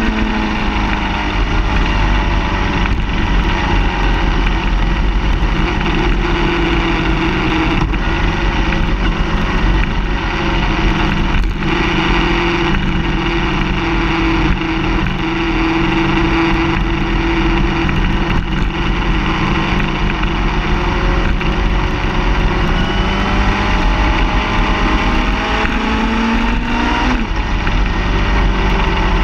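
A car engine running under way with steady road noise. The engine note climbs over the first few seconds, holds steady, then drops and changes abruptly near the end.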